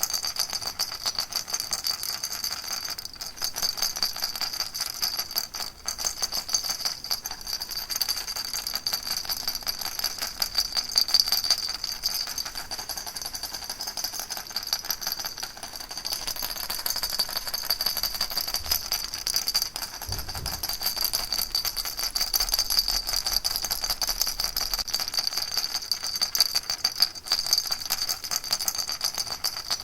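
Baby rattle shaken steadily without pause: a dense, fast rattling with a bright, tinkling ring.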